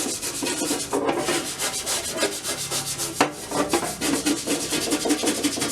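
Rapid back-and-forth scrubbing of a rusty metal tackle-box part soaked in degreaser, the rust coming off. The strokes are quick and even, with short breaks about a second in and again about three seconds in.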